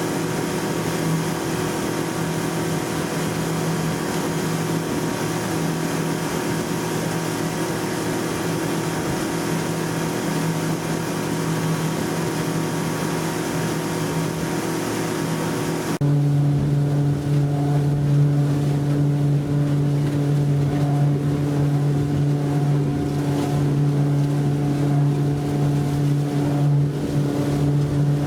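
Yamaha F90C four-stroke outboard motor running steadily at speed, with water and wind rushing past. About halfway through the sound switches abruptly to a lower, louder engine note with less hiss.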